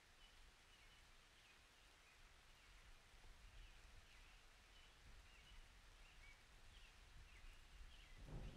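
Near silence: faint room tone with small birds chirping faintly and repeatedly in the background, and a soft handling noise near the end.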